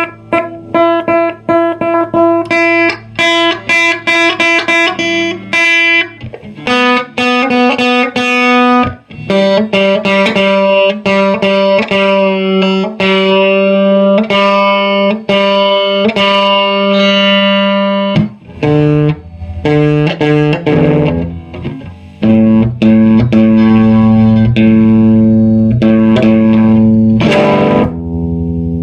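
Electric guitar played through the Ibanez TSA30 tube combo amp with some overdrive: a run of picked notes and ringing chords. The amp plays cleanly and loudly after its repair.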